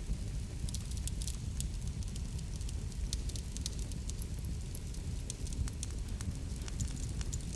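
Wood fire burning in a fireplace: a steady low rumble with frequent small, sharp crackles and pops, several a second.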